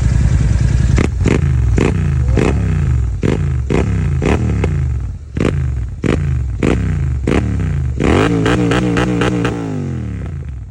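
Royal Enfield Continental GT 650 parallel-twin idling, then blipped repeatedly: sharp revs about one to two a second, each falling straight back. Near the end comes a longer rev, held for a couple of seconds and then let down.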